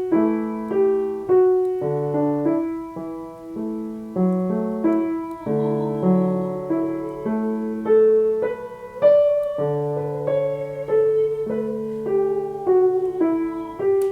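Piano playing a song accompaniment: a melody over chords, with a new note or chord struck about every half second.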